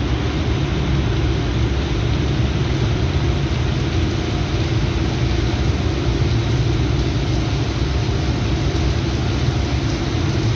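Heavy diesel engine of a Volvo ECR235EL excavator running steadily, a low even hum with no revving.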